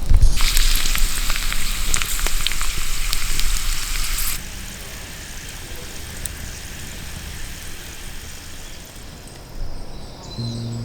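Food sizzling and crackling as it fries in a pan, loud for about four seconds, then cutting suddenly to a quieter steady sizzle.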